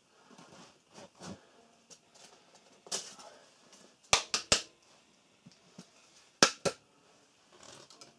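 Sharp knocks, three in quick succession about four seconds in and two more about six and a half seconds in, among quieter rustling and handling sounds.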